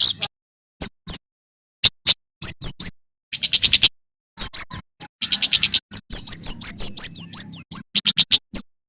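Male prenjak keres (kemade jawa) songbird singing loudly: rapid, sharp, high-pitched notes that slide down in pitch, broken by short fast trills, with a dense run of notes in the second half.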